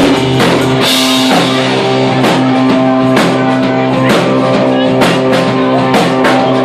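Rock band playing: held guitar chords over steady drum hits.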